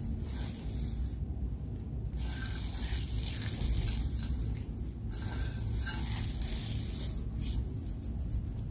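White soap being crushed, crackling and crumbling in stretches of a second or two, with a few sharp snaps near the end.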